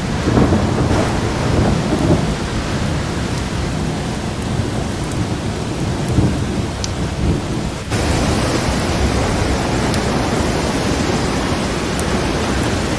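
Heavy rain and rushing floodwater in a storm: a loud, steady roar of noise with low rumbling in the first few seconds. About eight seconds in it cuts abruptly to a brighter hiss.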